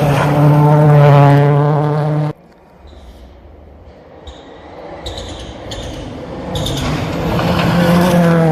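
Rally car engine running hard at high revs, cut off abruptly about two seconds in. A quieter stretch of rumble with a few sharp ticks follows, then a rally car's engine builds up again and runs loud near the end.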